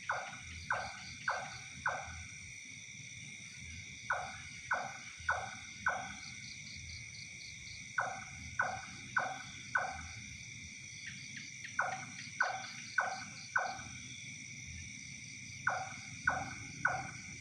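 An animal call of four short notes, each falling in pitch, repeated in sets about every four seconds, over a steady high-pitched insect chorus.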